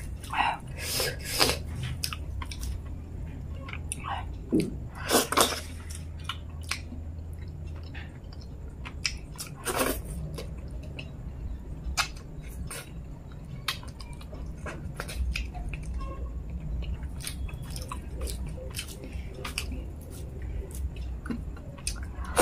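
Close-up wet chewing and lip smacking of someone eating soft wheat dhido and fish head curry by hand, with irregular clicks and a few louder smacks.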